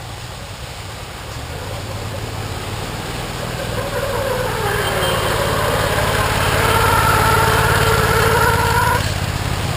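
Off-road rail buggy engine running and revving, rising in pitch and getting louder over several seconds, then the revving cuts off sharply about nine seconds in.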